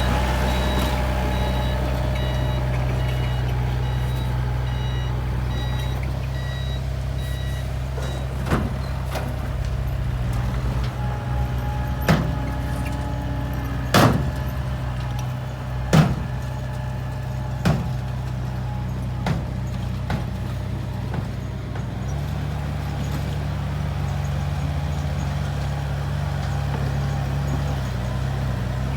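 Komatsu bulldozer's diesel engine running steadily, with about seven sharp knocks in the middle stretch. The engine note changes about three-quarters of the way through.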